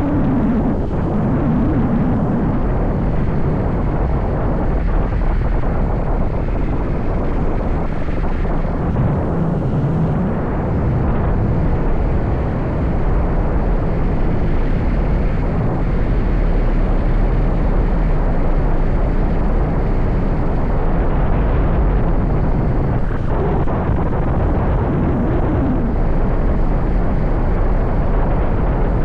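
Riding motorbike: a steady rush of wind over the microphone with the bike's engine running underneath, its note wavering up and down now and then.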